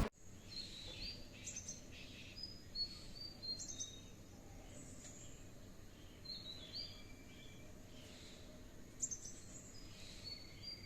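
Birds calling: short, high chirps and whistled notes that come in scattered clusters, over faint outdoor background noise.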